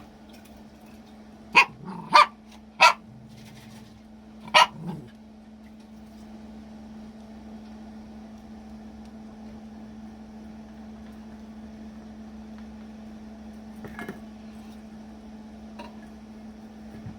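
A dog barking four short, sharp barks in the first five seconds, at its own reflection in a shiny food bowl that it takes for another dog. A steady low hum runs underneath.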